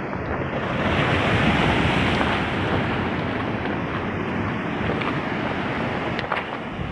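Waves breaking and washing on the shore, with wind buffeting the microphone; the wash swells about a second in, then holds steady.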